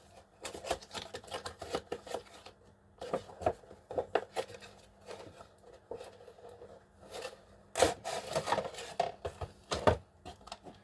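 Slot cars being taken out of their cases and handled: irregular rubbing and scraping with sharp clicks, the loudest about 8 and 10 seconds in.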